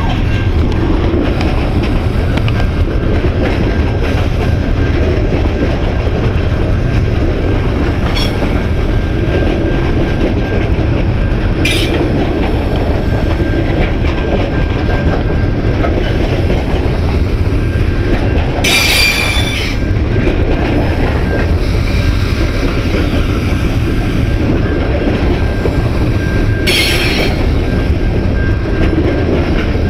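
A long train of about 185 wagons passing close by with a loud, steady rumble and rattle of wheels on rail. Three brief high-pitched wheel squeals cut through, the longest about two-thirds of the way in.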